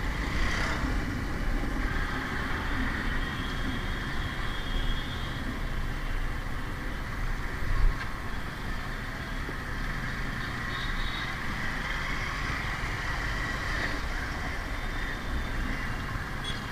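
Motorcycle riding through city traffic: steady engine and road noise, with one short knock about eight seconds in.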